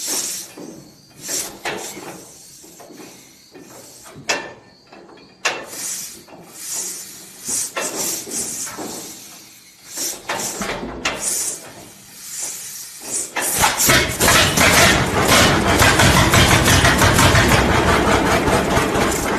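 Vintage 1935 John Deere two-cylinder tractor: scattered clanks and hissing, then about two-thirds of the way through the engine is heard running, loud and steady.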